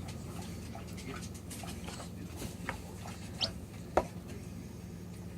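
Newly hatched bantam chicks giving a few short, high peeps, with a sharp tap about four seconds in, over a low steady hum.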